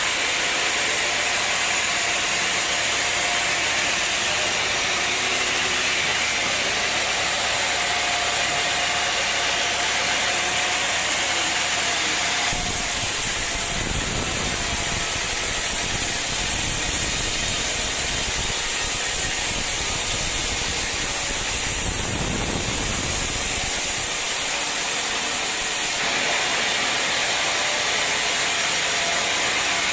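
Sawmill machinery running with a steady, loud hiss. About twelve seconds in, a deeper, heavier noise joins it and lasts until about twenty-six seconds.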